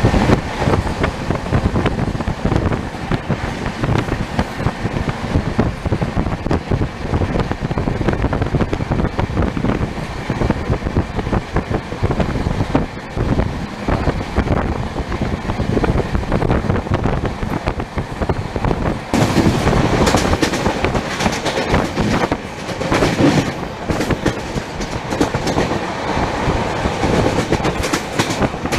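Shatabdi Express passenger train running at speed: steady rumble and clickety-clack of wheels over the rail joints. About two-thirds of the way through the sound turns brighter and a little louder.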